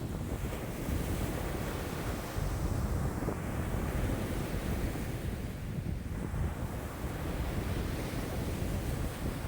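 High waves on a lake washing and breaking in a strong wind (about 5 m/s), with wind buffeting the microphone as a low rumble. The hiss of the wash swells and eases, twice.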